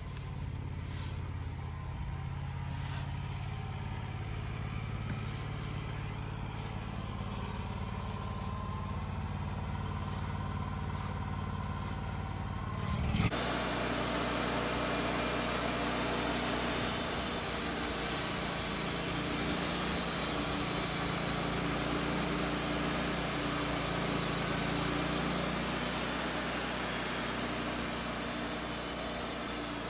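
Engine of a portable sawmill running steadily. About thirteen seconds in the sound jumps louder and a loud hiss joins it, with the engine note shifting, and this carries on.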